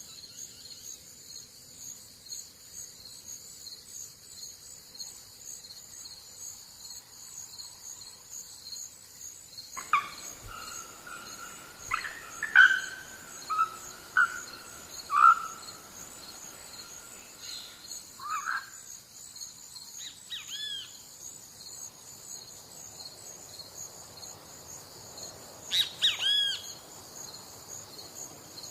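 Crickets chirping in a steady, high, pulsing trill, with a bird calling a series of loud short notes from about a third of the way in and two more calls later on.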